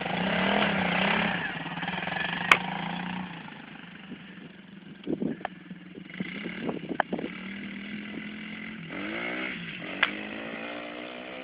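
A 110cc four-stroke pit bike engine running. It revs up and down at first, drops quieter in the middle with a few sharp clicks and knocks, then revs up and down again near the end.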